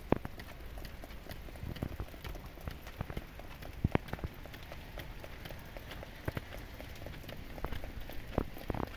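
Steady rain falling, with irregular louder drips landing close by.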